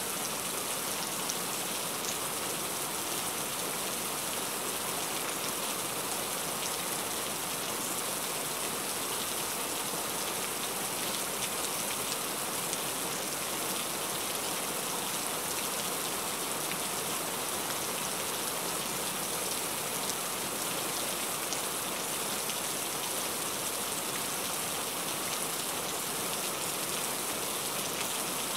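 Steady rain pattering on a car's roof and windshield, heard from inside the cabin.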